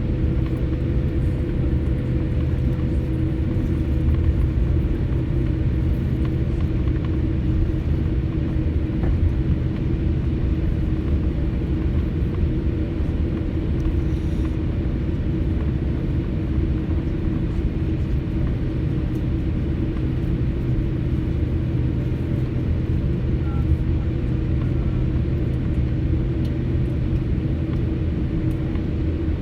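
Steady cabin rumble of a jet airliner on the ground before takeoff, its engines running at idle, with a few constant low hums over the noise.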